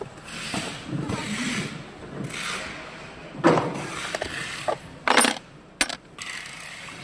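Small hard clicks and rattles from parts being handled and fitted during a battery change, with a sharp knock about halfway through and short spells of rustling noise between.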